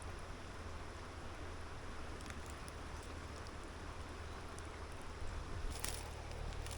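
River water flowing steadily, with a few light clicks near the end.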